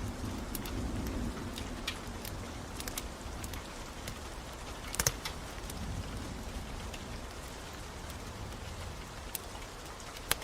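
Steady rain with a wood fire crackling over it, its sharp pops scattered irregularly. The loudest is a small cluster of pops about five seconds in.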